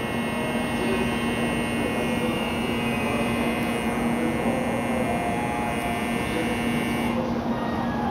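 Steady electrical hum from an N700A Shinkansen train standing at the platform before departure, with a steady high-pitched electronic tone over it that cuts off about seven seconds in.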